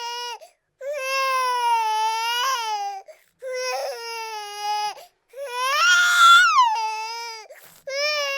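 Baby-like crying: a run of long wailing cries, each a second or two long, with short breaks between them. A fourth cry starts near the end.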